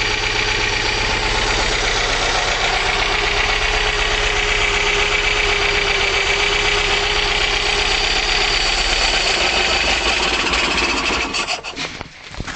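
Volvo Penta B20 marine four-cylinder petrol engine running steadily on its first start in 15 years, freshly fitted with new ignition parts and a cleaned carburettor. Near the end it stops, its last few firings uneven as it dies away.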